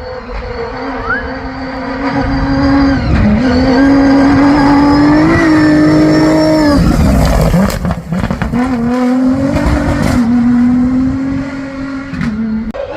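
A rally-raid competition vehicle's engine runs at high revs as it drives through the stage. It gets louder towards the middle and its pitch drops briefly several times, which sounds like gear changes. Around the middle and just after, there is some clattering, likely gravel or bumps under the wheels.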